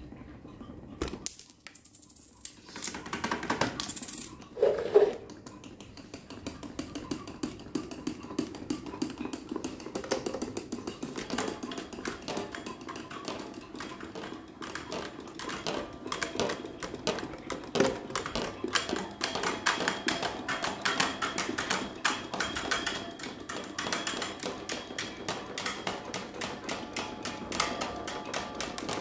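Electric fan running with a fast, continuous clatter of ticks. A few louder knocks come in the first five seconds.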